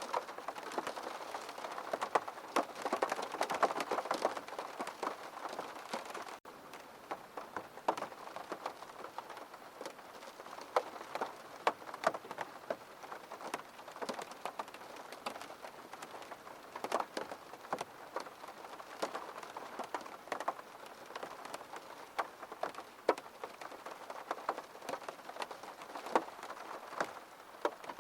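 Rain falling on a window: a steady patter with many separate sharp drop taps, heavier for the first six seconds or so. There is a brief dropout about six seconds in.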